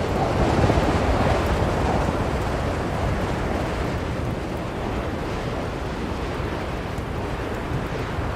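Blizzard wind blowing hard, a gust swelling over the first couple of seconds and then easing to a steady rush.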